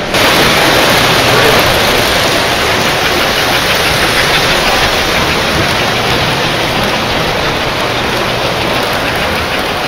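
Model train rolling on the layout's track close to the microphone, a steady rushing noise that starts abruptly and slowly fades.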